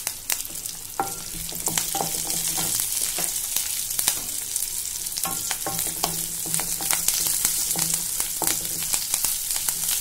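A tempering of curry leaves, garlic, cumin seeds and green and dried red chillies sizzling and crackling in hot oil in a stainless steel pan, stirred with a wooden spatula.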